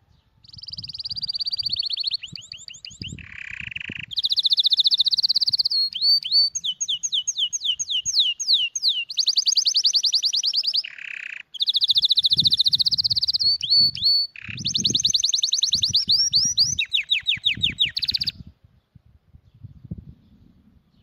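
A songbird singing a long song of fast, high trills and chirps, broken by a few short, lower buzzy notes; the song stops about 18 seconds in. Soft low knocks sound underneath.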